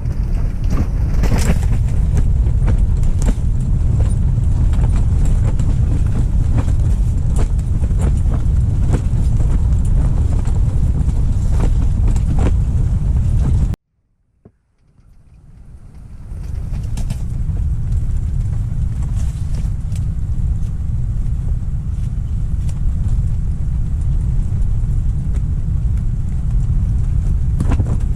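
Strong wind buffeting the microphone: a heavy, steady low rumble with faint ticks above it. The sound cuts out abruptly about halfway through and swells back in over a couple of seconds.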